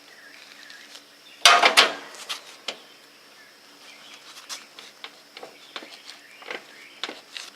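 Metal clanks and clicks of a Murray riding mower's wheel hub being worked onto its axle and lined up with the key: a loud rattle of several clanks about a second and a half in, then scattered lighter clicks.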